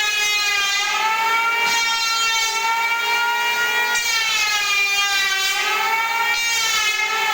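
Electric power tool motor running at speed with a high whine, its pitch dipping and recovering several times as it is loaded.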